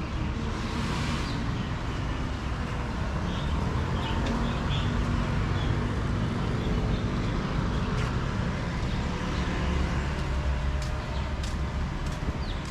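Street traffic: a steady low rumble of motor vehicles, with a few faint chirps and some sharp clicks near the end.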